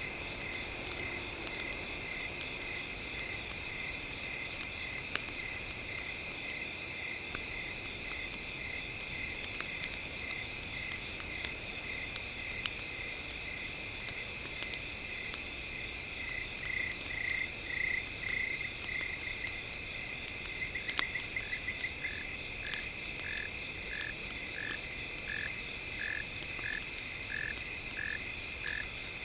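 Night ambience of steady high trilling tones, with a short call that repeats about twice a second through the last third, over sparse faint crackles of a campfire.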